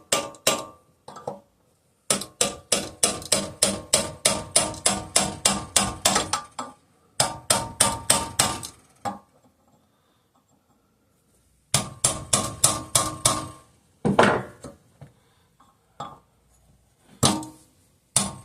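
Rapid hammer taps on metal, about four or five a second in runs of a few seconds with short pauses, each tap ringing briefly. The taps are tightening a part onto the flywheel of a 5 hp Briggs and Stratton engine, which must be fairly tight or the flywheel will shear its aluminum key.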